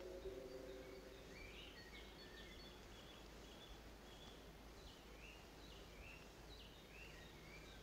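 Faint birdsong: a string of short chirps and quick up-and-down notes from a small bird over quiet woodland ambience. A held low music chord fades out in the first second.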